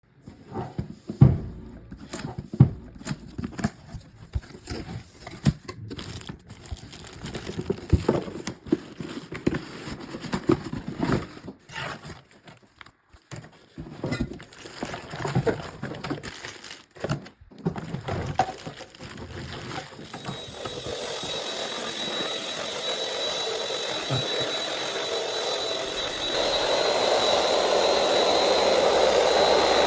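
Irregular clicks, knocks and rustles of plastic parts and packaging being handled. About twenty seconds in, the SilverCrest SMS 300 A1 handheld anti-mite vacuum's motor starts and runs steadily with a high whine, getting louder again near the end.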